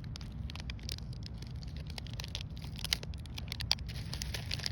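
Steady low rumble with scattered crackling and rustling.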